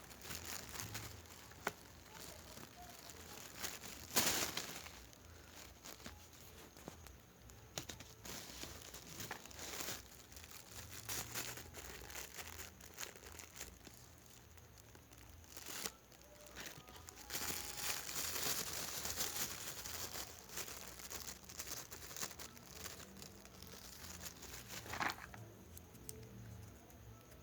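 Irregular crinkling and rustling of crinkly material being handled, with scattered sharper crackles; the loudest crackle comes about four seconds in.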